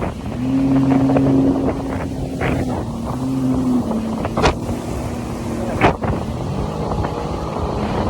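Jet ski engine running at speed over dense wind noise on the microphone, its note dropping lower about four seconds in. Three sharp slaps cut through partway along.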